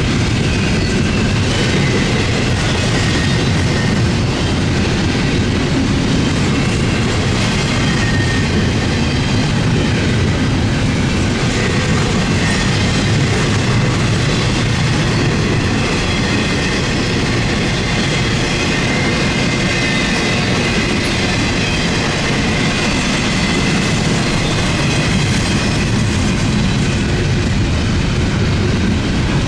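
CN intermodal freight train's cars rolling past steadily, wheels clacking over the rail joints, with a faint high wheel squeal coming and going.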